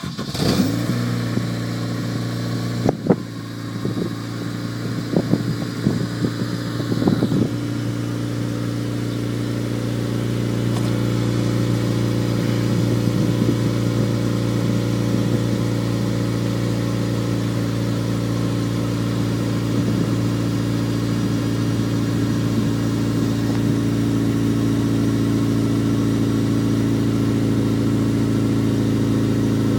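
2002 Acura RSX Type S's K20 four-cylinder engine catching on a cold start and idling through a DC Race header and Invidia Q300 exhaust. A few sharp clicks sound over the first several seconds, then the idle runs steady and grows slightly louder.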